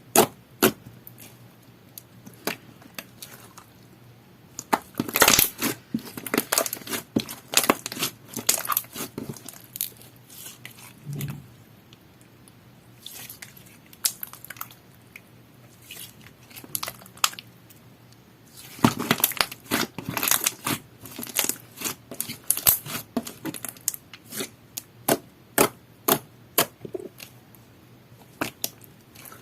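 Hands squishing and pressing clear slime made with aloe soothing gel, giving wet, sticky clicks and small popping crackles. These come in dense flurries about five seconds in and again near twenty seconds, with sparser pops between.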